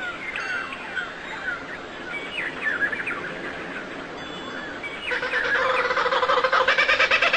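Small birds chirping in many short, falling notes. About five seconds in, a louder, rapidly pulsing fowl-like call starts and carries on.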